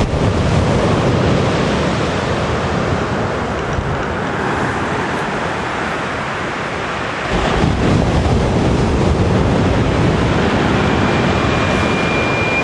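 Surf breaking, a steady rushing noise that swells about seven seconds in. Near the end an eastern whipbird starts its long, steady whistled note, the drawn-out opening of the male's whip-crack call.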